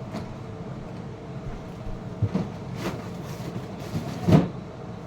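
Groceries being handled and put away: a few short knocks and bumps, the loudest about four seconds in, over a steady low hum.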